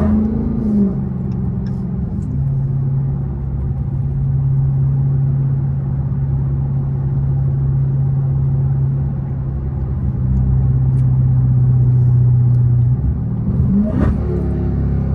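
Supercharged 6.2-litre Hemi V8 of a Dodge Charger Hellcat with its mid mufflers deleted, running loud through the exhaust at a steady mid-range pitch. A quick rev sweep comes at the very start and again near the end.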